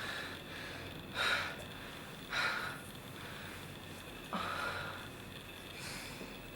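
A person breathing audibly, with three sharp, noisy inhalations spaced unevenly over a few seconds.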